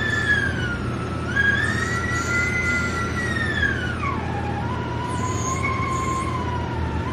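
Haas desktop lathe running a program, its spindle giving a steady whine whose pitch slides down, jumps back up and rises, then drops lower about four seconds in as the spindle speed changes during the cut, over a low steady machine hum.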